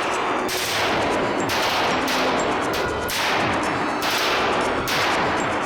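Automatic weapons firing in long, nearly continuous bursts at an indoor range, with brief breaks between bursts.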